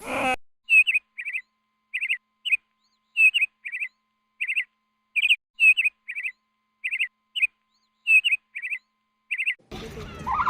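A small bird chirping: short chirps that drop in pitch, mostly in pairs, roughly every half second, with dead silence between them.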